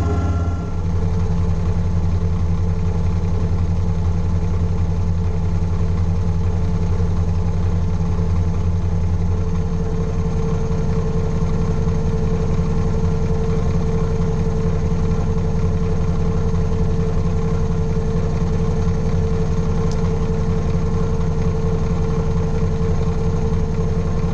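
Kubota BX25 tractor's three-cylinder diesel engine running steadily. A steady higher whine joins in about nine seconds in.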